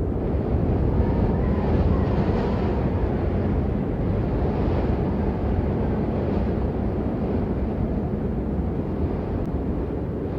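Rain falling, a steady dense hiss with a deep rumble underneath, swelling briefly a few times.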